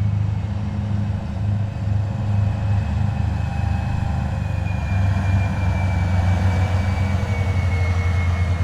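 Heavy military vehicles driving past in a column, their diesel engines giving a steady low rumble, with a faint high whine that slowly falls in pitch as one passes.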